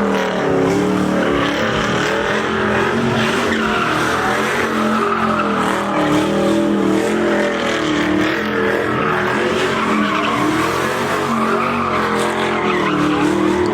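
A truck's engine held at high revs, its pitch wavering up and down, while its tyres spin and squeal on the pavement in a sustained burnout.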